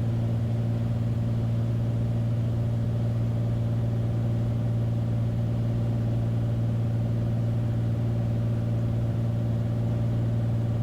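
Beechcraft Bonanza's piston engine and propeller droning steadily, heard inside the cockpit with landing gear down on the downwind leg.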